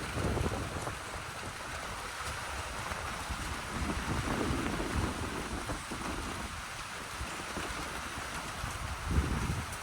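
Strong post-storm wind with steady rain hissing, and gusts hitting the phone's microphone as low rumbles about half a second in, around four seconds in, and near the end.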